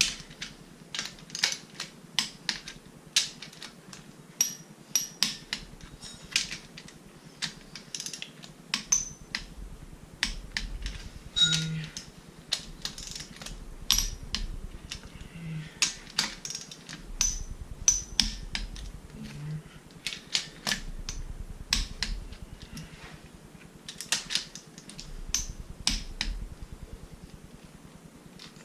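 Ratcheting torque wrench clicking in quick runs of sharp clicks, over and over, as the end plate bolts of a Mazda 13B Renesis rotary engine are tightened down.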